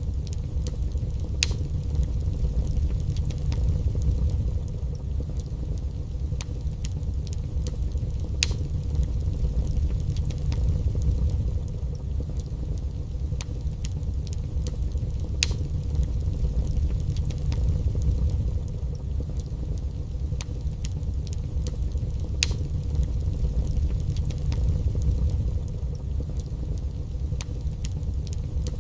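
Wood fire burning in a fireplace: a steady low rumble with sharp crackles and pops every second or two.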